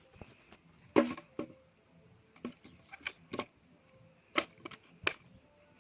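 A handful of sharp clicks and knocks, irregularly spaced, the loudest about a second in and again past four seconds.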